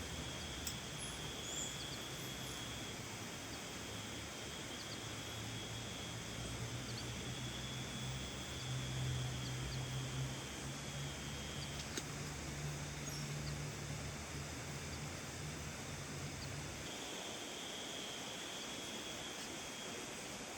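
Steady rain hissing on a tent and the surrounding forest, with a thin high-pitched steady buzz that drops out a little past halfway and comes back near the end. A low droning hum runs underneath and stops about 17 seconds in, and a few faint short chirps come through.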